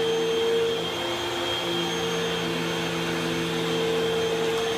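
Vacuum cleaner running with a steady motor hum; its pitch shifts slightly about a second in, as if its airflow or load changes.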